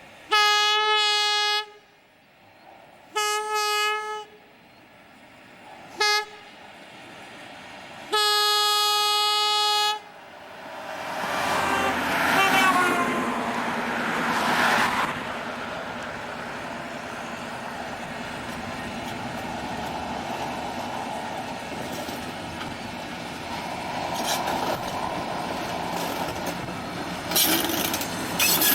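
Steeple-cab electric locomotive's horn sounding one steady note in the grade-crossing pattern, long, long, short, long, followed by the train rolling past, with rail rumble and clicking wheels.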